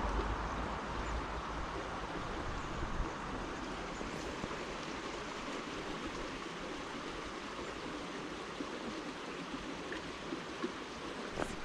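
Small creek's water flowing steadily, an even rushing noise. A low rumble fades out over the first few seconds.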